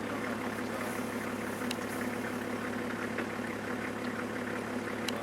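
Safari game-drive vehicle's engine idling steadily, with a couple of faint clicks.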